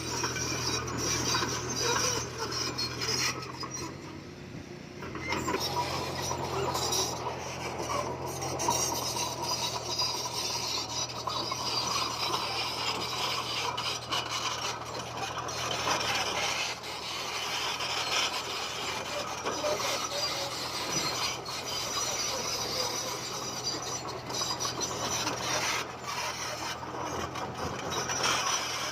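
Komatsu D20P bulldozer working: its diesel engine runs steadily under a continuous grinding, scraping clatter of steel tracks and pushed stone, easing briefly about four seconds in.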